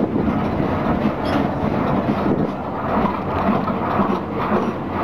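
Botchan Ressha replica steam locomotive, a diesel underneath, running along street tramway track: a steady engine hum and the rumble of wheels on rails, heard from the open coach just behind it.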